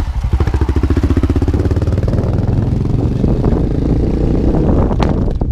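Single-cylinder engine of a Yamaha XTZ660 Ténéré (3YF) motorcycle running, with a rapid, even beat of firing pulses in the first two seconds that then turns less regular.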